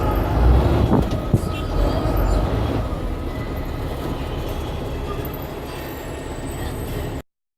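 Blue Bird All American bus engine running with a steady low rumble, with a couple of sharp knocks about a second in; the sound cuts off suddenly near the end.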